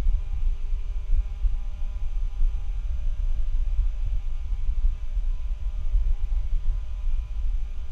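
Noise from a bad microphone: a loud, jittery low rumble with a faint steady hum and hiss over it, unchanging throughout.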